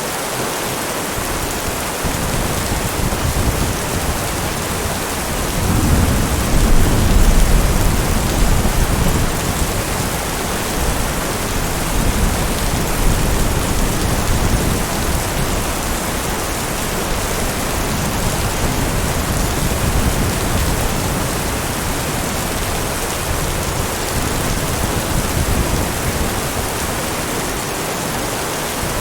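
Steady heavy rain, with a low roll of thunder swelling about six seconds in and rumbling away over the next few seconds.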